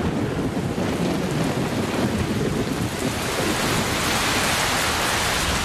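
Heavy tropical rain pouring down, with a low rumble of thunder in the first half; the rain's hiss grows brighter and fuller from about halfway through.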